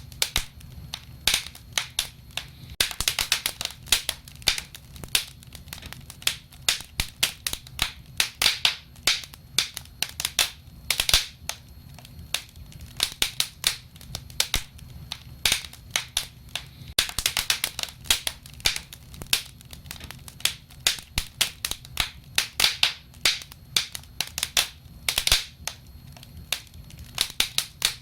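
Wood fire crackling, with dense sharp pops and snaps coming in bunches every few seconds over a low steady rumble of the flames.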